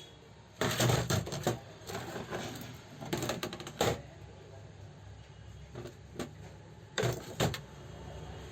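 Metal parts and tools of an old overlock sewing machine clicking and clattering in irregular bursts as it is worked on by hand, loudest about a second in and again near the end.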